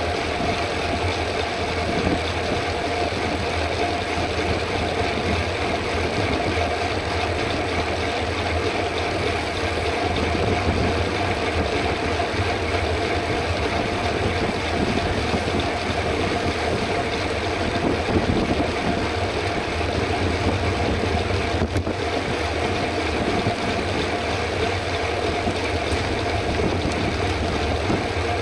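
Steady rush of wind on the microphone and tyre hum from a mountain bike riding at race pace on the road.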